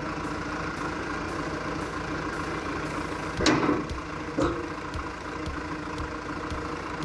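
Heavy machine's engine running steadily, with two sharp metal clanks about three and a half and four and a half seconds in.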